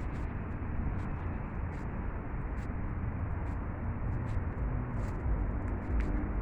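Steady low rumble of outdoor background noise with a faint hum, without distinct events.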